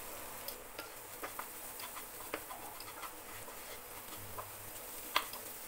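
Thick onion-tomato masala frying in a non-stick pan, giving off sparse, irregular crackles and ticks, with a wooden spatula stirring it; the sharpest tick comes about five seconds in.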